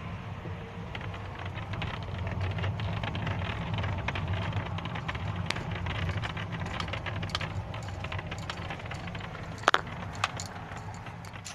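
Hyundai i40 dashboard panel crackling and clicking in irregular little snaps over a steady low hum of the car's cabin, with a sharper crack about ten seconds in. The creaking comes from the upper part of the panel under the windscreen, a loose trim panel that needs padding and gluing.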